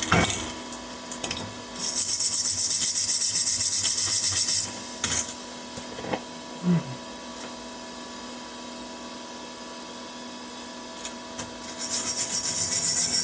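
A hand tool rasped rapidly back and forth over welded steel in two bouts: one about two seconds in lasting some three seconds, another starting near the end. A few light knocks fall between them.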